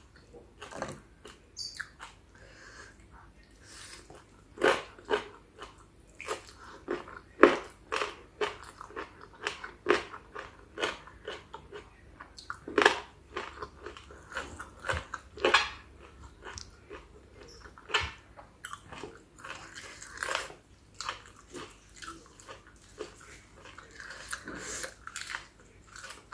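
A person chewing and biting into spicy chicken feet salad close to the microphone: irregular sharp crunches and mouth clicks, often several a second, louder through the middle stretch.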